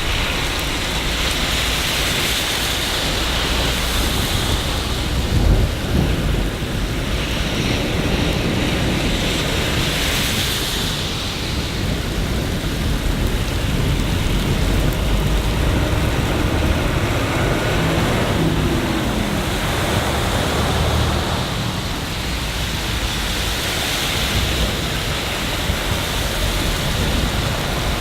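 Steady rain falling, with a deep low rumble underneath and a brief louder thump about five and a half seconds in.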